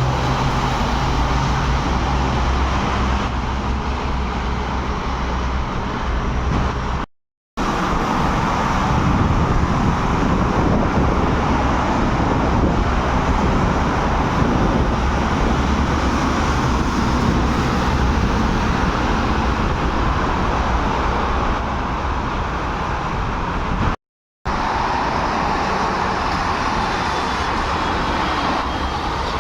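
Steady road-traffic noise of vehicles running, with a low engine hum in the first few seconds. The sound drops out abruptly twice, about seven seconds in and about five seconds before the end, where one recording is cut to the next.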